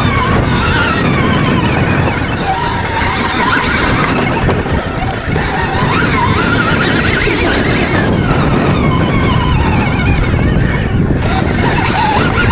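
Stark Varg electric motocross bike's motor whining, its pitch rising and falling over and over as the throttle is opened and closed, over a heavy low rumble.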